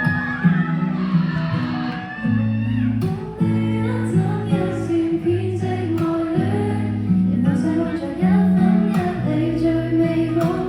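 Live band music: guitars playing over a steady low bass line, with singing.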